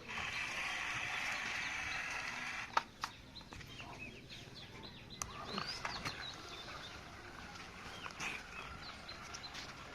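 Birds chirping and calling, many short rising and falling calls, denser and louder for the first couple of seconds; two sharp clicks just under three seconds in.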